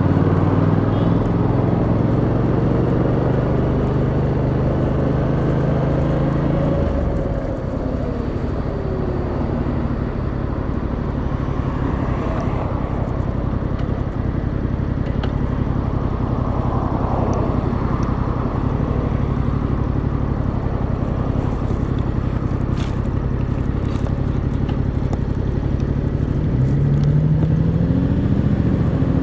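Yamaha MT-07's 689cc twin-cylinder engine, heard from the rider's seat. It runs steadily, then about seven seconds in the note drops away as the bike slows. It holds a low steady note through the middle, and near the end the revs rise as it accelerates again.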